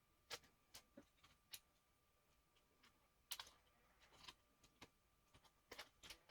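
Sparse light clicks and taps, about a dozen at irregular spacing, typical of small hard parts of a laptop being handled or keys being pressed.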